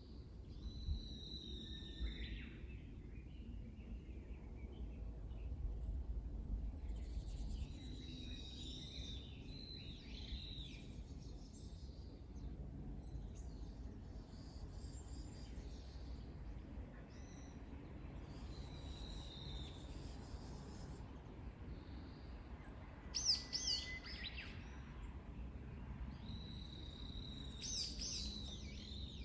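Wild songbirds singing in short phrases, one after another, the loudest a quick trill about two-thirds through and another burst near the end. Beneath them runs a low, steady wash of small waves on a lake.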